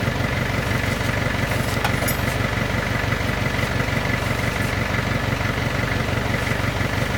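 An engine idling steadily, with a constant high whine over the low running note.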